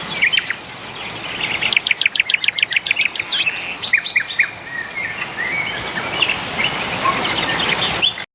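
Small birds chirping and calling, several short high notes overlapping, with a quick run of about a dozen evenly spaced notes a couple of seconds in, over a steady outdoor hiss.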